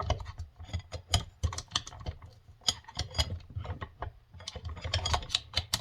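Hand tools clicking and tapping irregularly against metal parts of a tractor's front final drive, several light strokes a second, as a bevel gear and bearing are worked loose.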